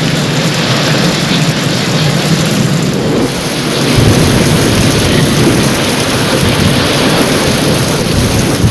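Heavy rain falling steadily, with thunder rumbling low underneath. The rumble grows stronger about four seconds in.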